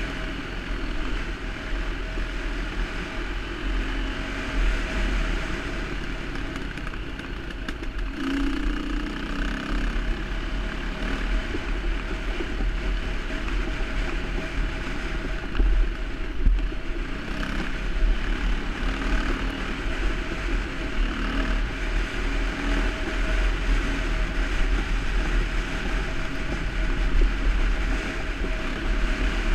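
Dirt bike engine running as the bike rides along a rough trail, its pitch rising and falling with the throttle, over a steady low rumble. A few sharp knocks come just past the halfway mark.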